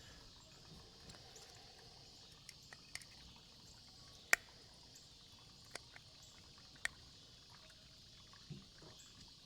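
A few faint, sharp metal clicks of a tool working at a stuck brass main jet in a small-engine carburetor, the strongest about halfway through, over a steady high insect chirring.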